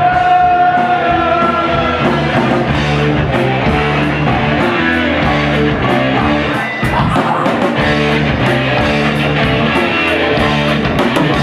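Instrumental break of a heavy rock song: electric guitars over a steady drum beat.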